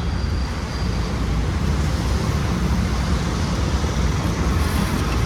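Steady rumble of road traffic passing close by.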